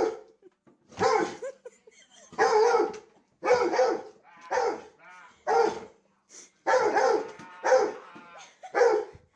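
A dog barking repeatedly, about nine barks at roughly one a second.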